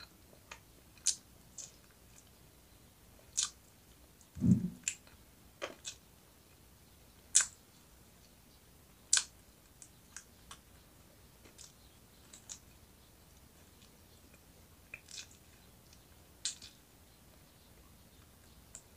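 Close-up mouth sounds of eating roast chicken wings: irregular, sparse, sharp wet clicks and smacks of chewing. A dull low thump comes about four and a half seconds in.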